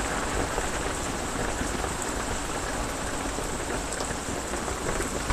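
Heavy rain drumming steadily on a metal roof, a dense even patter with scattered sharper drop hits.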